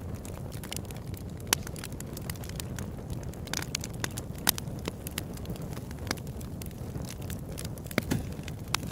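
Open-air wood campfire crackling, with frequent irregular sharp pops over a steady low rush of burning. The loudest snaps come about a second and a half, four and a half and eight seconds in.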